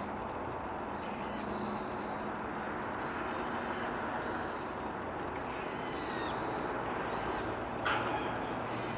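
Daurian redstart calling: a harsh note followed by a short, thin whistle, repeated about every two seconds over a steady background rush.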